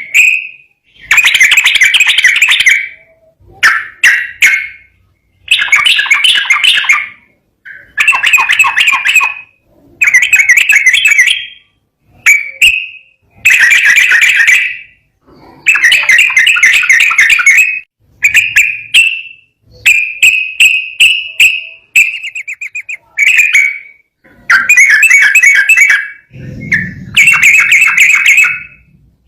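Yellow-vented bulbul (trucukan) singing loud, bubbly phrases of about a second each, one after another with short pauses between them. About three quarters of the way through comes a fast trill of rapidly repeated notes.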